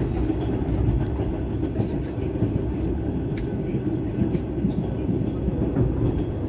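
Steady low rumble of a moving passenger train heard from inside the carriage, wheels running on the rails, with a few faint clicks.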